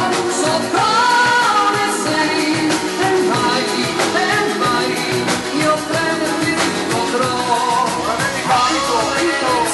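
A live dance band playing a pop ballad, with a male lead singer over the band and a steady beat.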